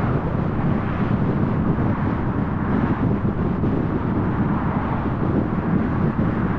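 A car on the move: steady road and tyre noise with engine hum, mixed with some wind noise.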